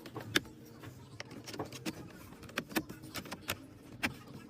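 Irregular sharp clicks and knocks of car parts and tools being handled during disassembly, about a dozen, with the loudest about half a second in and near the end.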